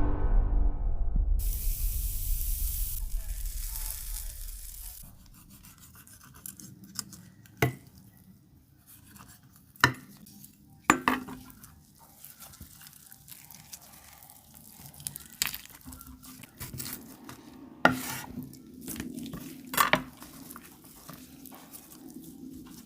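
Intro music fading out, then quiet food-preparation handling sounds: scattered sharp clicks and knocks, about five of them, over a low background.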